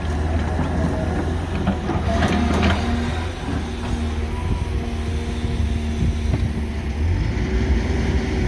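Heavy hydraulic excavator's diesel engine running hard under load as the machine strains against a load that will not move, a steady low drone with a held tone in the middle.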